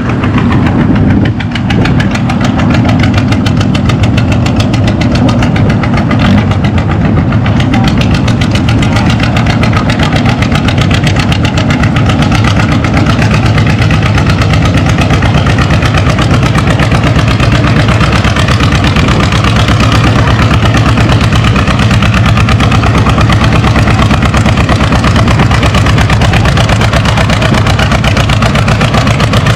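John Deere Model D's two-cylinder engine working hard under load as it pulls the weight-transfer sled, with a steady, rapid exhaust beat. It grows louder about a second in.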